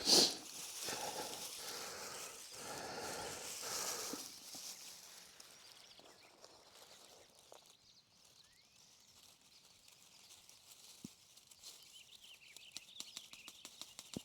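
A person blowing several long breaths into a tinder bundle to bring a bow-drill ember to flame, the first blow the loudest; after a near-quiet stretch, faint small ticks follow near the end.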